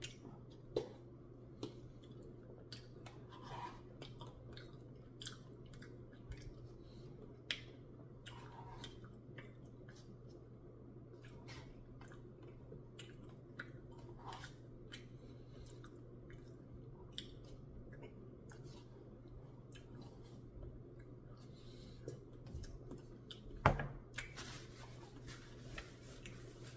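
Person chewing and eating a soft ice-cream Blizzard with peanut butter cup chunks, with quiet mouth sounds and scattered small clicks. There is one louder knock near the end.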